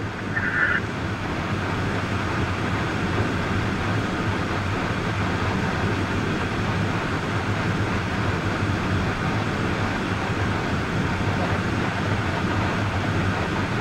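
Steady running noise of a moving vehicle, an even rush with a low hum. A short tone sounds in the first second.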